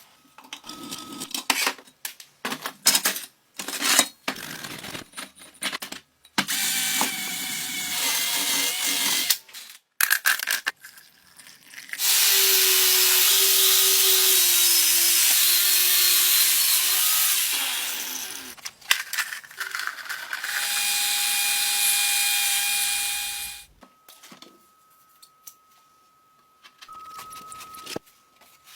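A power tool runs in two long spells, the first about six seconds and the second about three, between shorter bouts of tool clatter and knocking.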